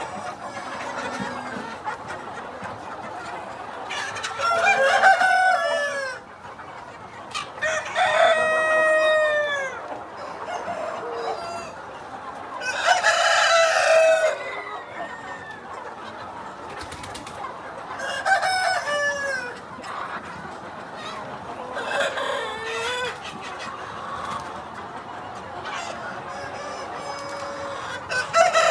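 Rooster crowing again and again, about six crows a few seconds apart, each a second or two long and falling away at the end, over a steady background of chickens clucking.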